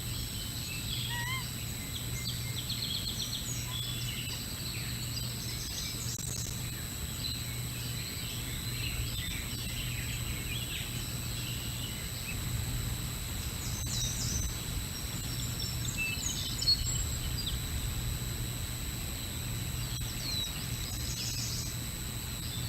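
Several birds chirping and calling in short, scattered notes, some quick rising whistles among them. Underneath is a steady low outdoor rumble.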